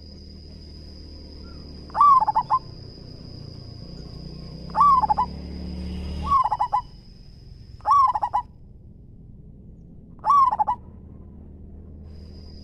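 Zebra dove (perkutut) cooing: five short, rapidly stuttering coo phrases, each about half a second long and spaced a couple of seconds apart. A steady high thin whine runs in the background and stops about two-thirds of the way through.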